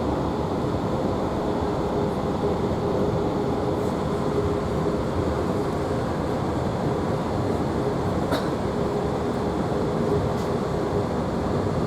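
Steady running noise of a Class 165 diesel multiple unit heard from inside the carriage: an even rumble from the wheels and underfloor diesel engine, with a steady hum over it. There is one faint click about eight seconds in.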